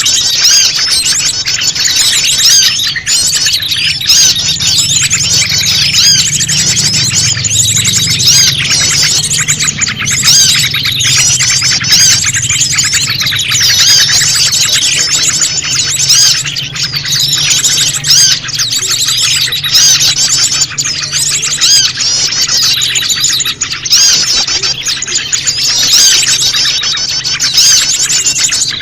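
Bird-lure recording of prenjak lumut calls mixed with a crowd of other small birds: dense, overlapping high chirps and trills that never let up, loud and busy like a flock mobbing.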